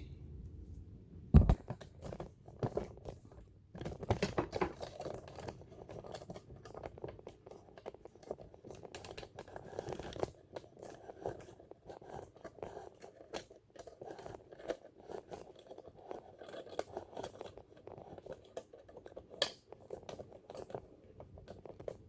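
Hands working on the metal parts of a vintage all-metal sewing machine while oiling it: irregular small clicks, taps and scraping, with one sharp knock about a second and a half in.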